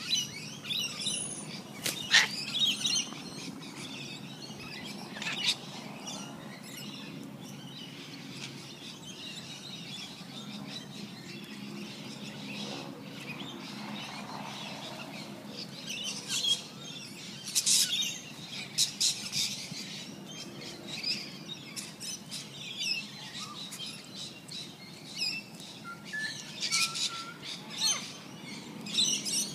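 Birds chirping and tweeting in scattered short, high calls, in clusters near the start, in the middle and near the end, over a faint steady low hum.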